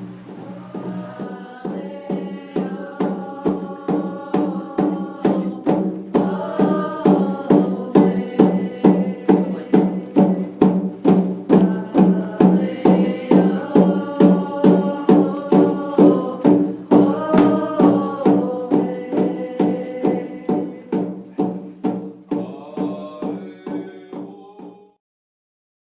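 Voices singing over a steady drum beat of about two strokes a second, building in loudness and stopping abruptly near the end.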